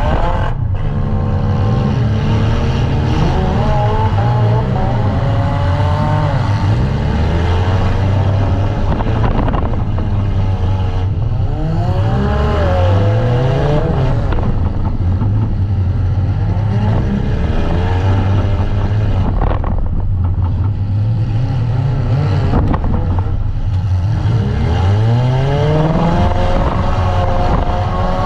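A compact demolition derby car's engine running hard and revving, its pitch climbing sharply several times, notably about twelve and twenty-five seconds in, and dropping back as the throttle is eased.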